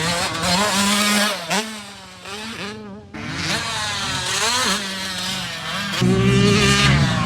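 Dirt bike engine revving, its pitch climbing and dropping as the throttle is worked. The engine sound fades about two seconds in, then a louder, steadier engine note comes in near the end.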